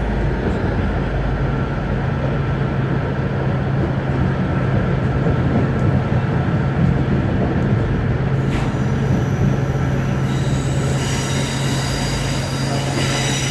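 Class 156 Super Sprinter diesel multiple unit running: a steady drone from its Cummins diesel engines over the rumble of the wheels on the track. High-pitched wheel squeal comes in about eleven seconds in.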